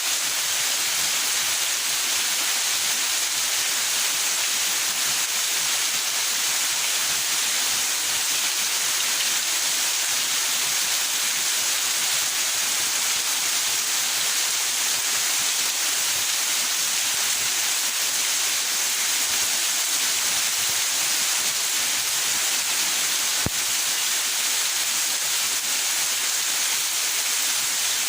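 Steady rain falling in a backyard, an even high hiss, with a single faint click about 23 seconds in.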